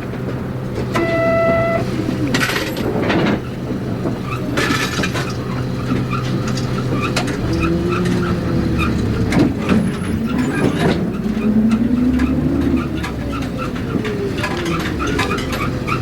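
Inside a city route bus under way: the diesel engine rises and falls in pitch as the bus accelerates and changes gear. A short pitched tone sounds about a second in, and a quick regular ticking comes in near the end.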